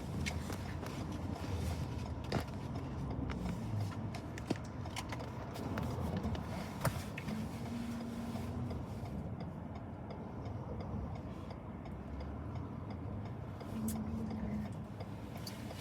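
Car cabin noise while driving: a steady low road and engine rumble, with a few sharp clicks scattered through it.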